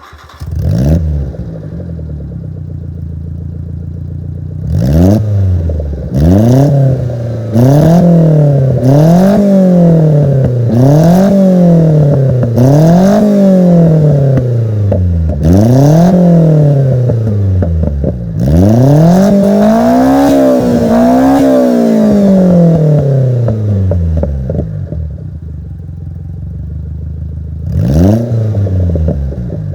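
Subaru Sambar KS4 kei truck's 660 cc four-cylinder engine running through an aftermarket HKS Silent Hi-Power muffler made for a Toyota Vitz. It idles at first, then is free-revved over and over, each rev rising and falling over about two seconds. Near the end it settles back to idle, then revs again.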